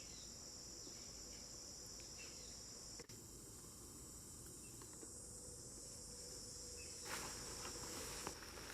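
A steady, high-pitched late-summer insect chorus in woodland. Rustling footsteps come in about seven seconds in.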